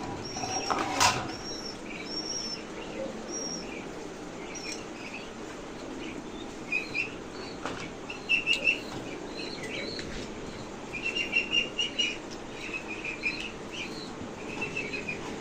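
Pigeons in a loft: short squeaky chirps in quick runs, the peeping of young pigeons, with wing flapping. One sharp knock comes about a second in.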